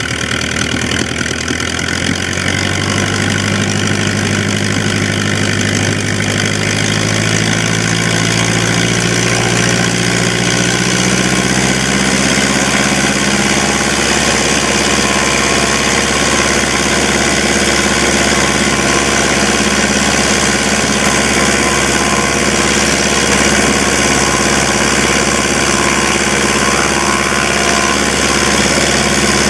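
DHC-1 Chipmunk's four-cylinder inverted de Havilland Gipsy Major piston engine running on the ground during a run-up. Its speed climbs slowly over the first dozen seconds, then holds at a steady setting.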